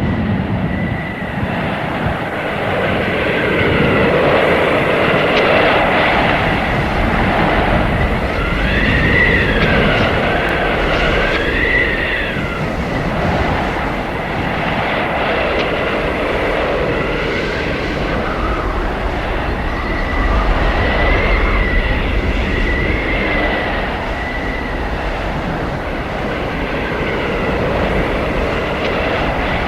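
Blizzard wind blowing hard and continuously in swelling gusts, with a high thin whistle that glides up and down in pitch, most clearly about nine to twelve seconds in and again a little after twenty seconds.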